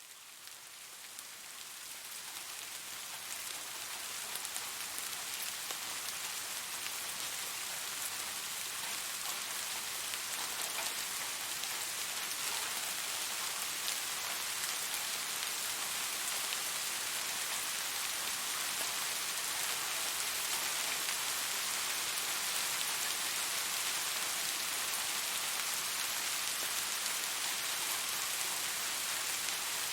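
Steady rain, an even hiss of falling drops, fading in from near silence over the first few seconds and then holding steady.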